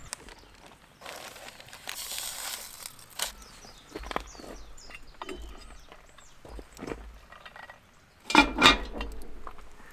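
Scattered knocks and handling noises, the loudest a pair of thuds near the end, with a brief hiss about a second in and faint bird chirps.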